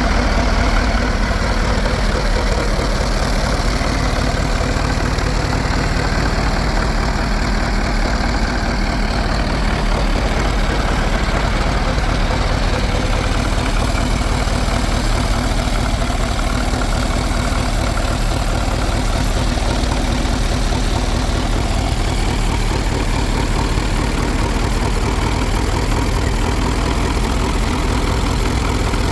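Fordson E27N tractor engine idling steadily, with an even pulse of firing strokes.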